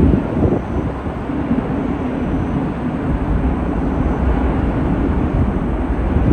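Steady low rumble of a Boeing 777's jet engines.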